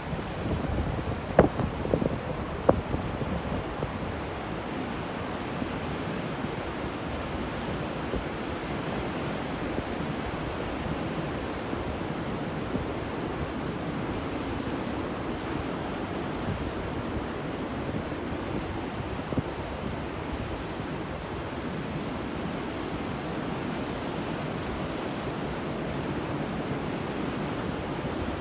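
Steady rain falling, an even rushing hiss, with a few sharp knocks in the first three seconds.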